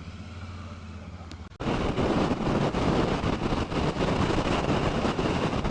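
Royal Enfield 650 parallel-twin motorcycle engine running steadily on the move, then about a second and a half in the sound jumps abruptly louder into a dense rush of wind and engine noise, as of riding at speed.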